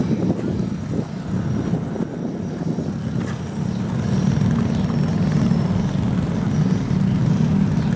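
Mitsubishi Canter light truck's diesel engine running steadily under load, growing louder about halfway through.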